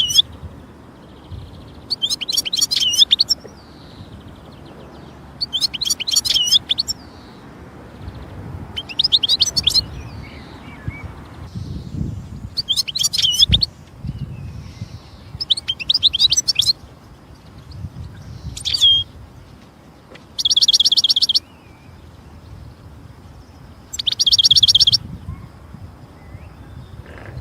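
European goldfinch singing: short high twittering phrases about every three seconds, with two longer buzzy trills in the second half.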